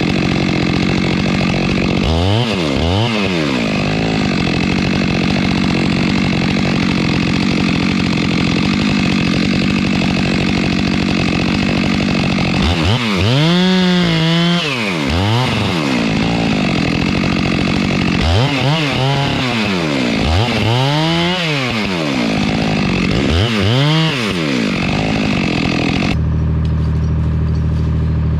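Two-stroke chainsaw running at high revs, its engine speed dipping and recovering several times under load. Near the end the sound switches abruptly to a steady, lower engine drone.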